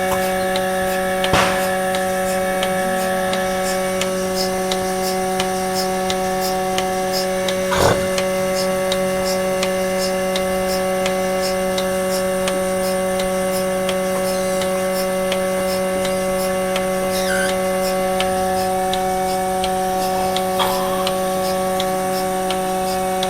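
Electric milking machine running steadily while milking a cow: a constant motor hum with faint regular ticking, and two brief knocks about one and a half seconds and eight seconds in.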